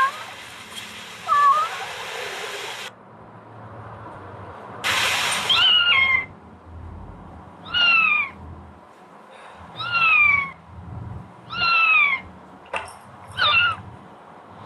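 Kitten meowing over and over: about six short meows, each falling in pitch, every two seconds or so. A steady hiss runs under the first few seconds.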